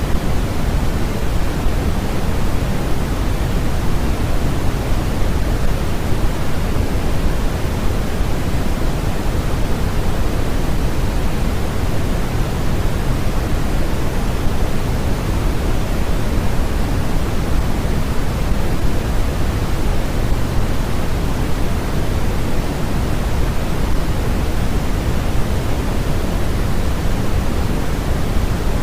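Steady, unbroken noise track of the kind sold as white noise for sleep and focus, a constant rushing hiss. It is weighted toward the low end and softer in the highs.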